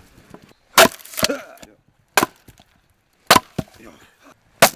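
Axe splitting firewood: four sharp blows about a second and a half apart, some followed by a lighter crack of the wood.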